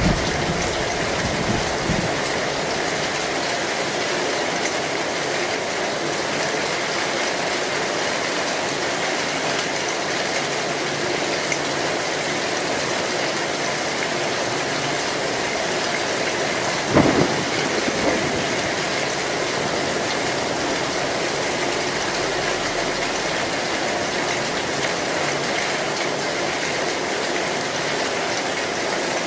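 Heavy, steady rain drumming on a metal tin roof. A low rumble of thunder dies away in the first two seconds, and a sudden sharp knock comes a little past halfway, with a fainter one a second later.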